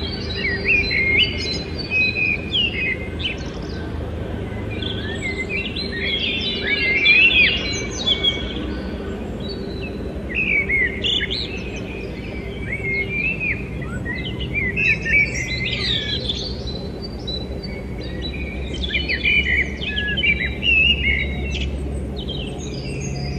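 Several small birds chirping and twittering: many short, high chirps overlapping without a break, over a low steady hum.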